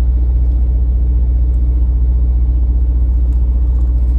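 Semi truck's diesel engine idling: a steady low rumble with an even pulse.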